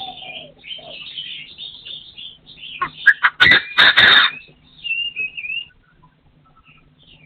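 Partridge calling: a run of chirping calls, then a loud, harsh burst of calls about three seconds in, and a short whistled warbling note about five seconds in.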